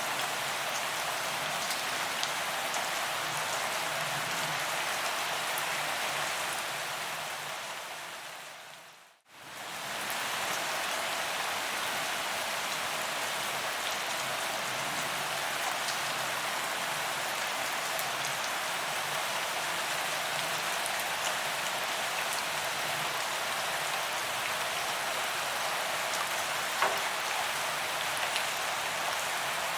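Steady rain falling on a paved sidewalk, an even hiss with scattered drop ticks. About nine seconds in it fades briefly to silence and fades straight back in, and near the end a single sharper drop tick stands out.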